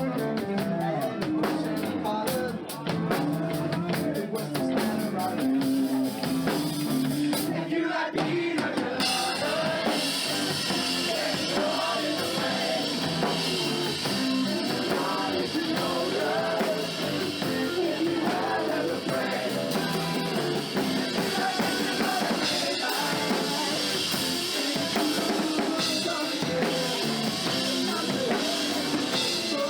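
Live rock band playing, drum kit driving a steady beat; about nine seconds in the sound turns fuller and brighter as the cymbals and the rest of the band come in harder.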